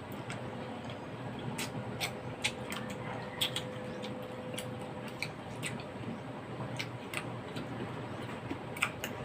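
Eating noises: a dozen or so small, sharp clicks and taps at irregular intervals, as of utensils, bowl and chewing, over a steady low background hum.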